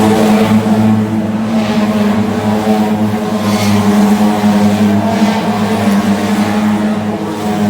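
Race car engines running: a steady engine drone throughout, with a rising and fading whoosh of noise every couple of seconds as cars go past.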